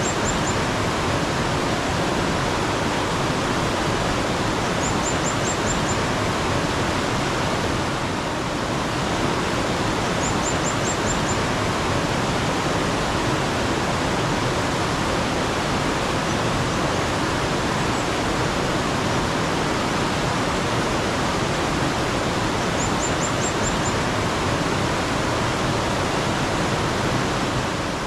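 Steady running water of a mountain stream. A small bird calls three times with a short quick run of five or six high chirps.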